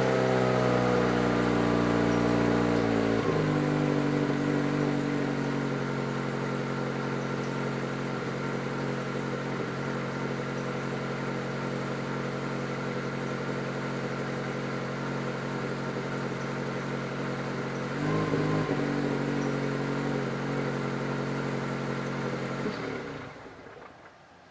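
2002 Ford SVT Focus's 2.0-litre four-cylinder engine through its stock exhaust, revs falling back after a rev over the first few seconds, then idling steadily. A brief blip of the throttle comes about 18 seconds in, and the engine sound cuts off near the end.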